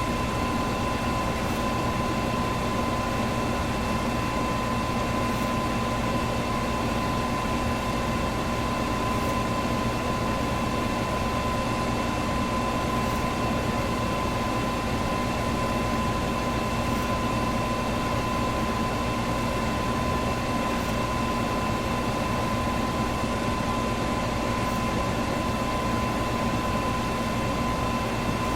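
Electric fan running steadily: an even rushing of air with a steady motor hum. A faint high tick recurs about every four seconds.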